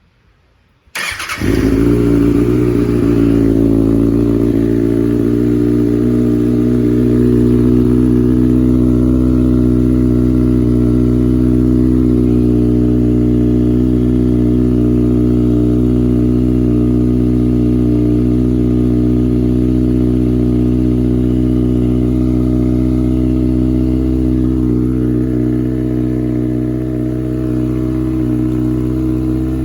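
A 2019 Kawasaki Ninja ZX-6R's inline-four engine, breathing through a Hotbodies Stinger carbon slip-on muffler with the factory catalytic converter, starts about a second in on a cold start. It then idles steadily without revving.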